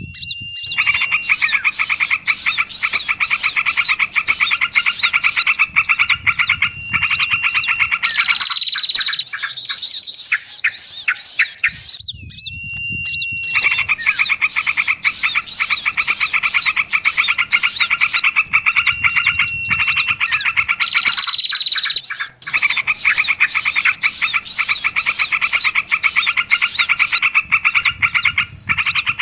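A dense chorus of small songbirds calling at once: rapid, fast-repeating chirps and trills layered over one another, a bird-luring call mix. The mix changes abruptly several times, cutting between spliced call loops.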